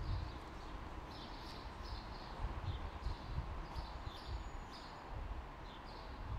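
Small birds chirping in quick repeated clusters of short high calls, over a low uneven rumble and a steady background hiss.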